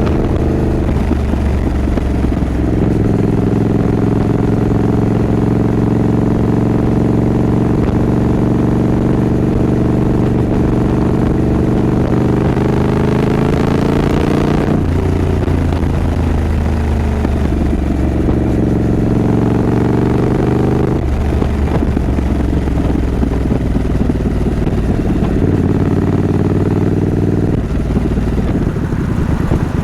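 Triumph Scrambler 900 parallel-twin engine running on the move. The note climbs and drops at a gear change about halfway through, climbs again and drops at a second shift about two-thirds through, then holds steady.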